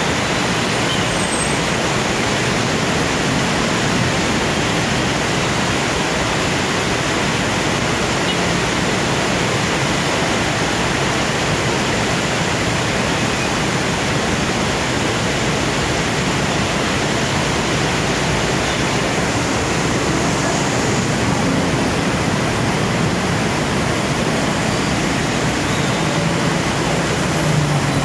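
Heavy rain pouring steadily, a dense even hiss, with road traffic rumbling beneath it.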